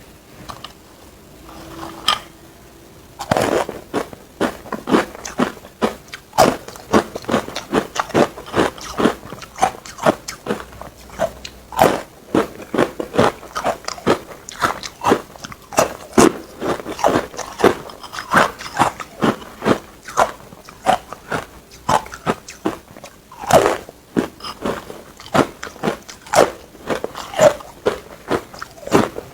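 Ice being bitten and crunched between the teeth, close to the microphone. After a couple of softer bites, a dense run of sharp crunches, about two or three a second, starts about three seconds in.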